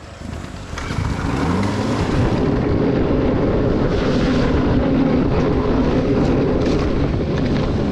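Dirt bike engine revving up as the bike pulls away, then running steadily under way.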